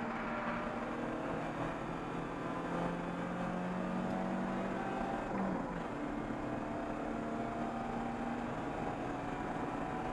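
Race car engine heard from inside the stripped cockpit, pulling under acceleration with its pitch slowly rising. About five and a half seconds in there is an upshift, where the pitch drops and then climbs again.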